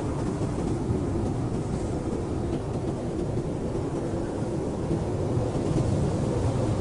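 Heavy blizzard wind blowing steadily as a low, deep noise, swelling a little near the end.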